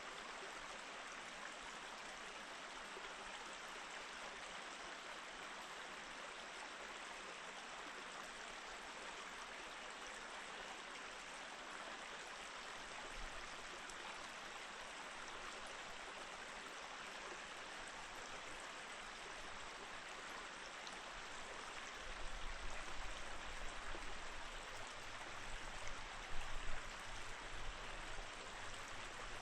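Mountain stream flowing over rocks: a steady rush of water. Over the last several seconds a low rumble comes and goes underneath it.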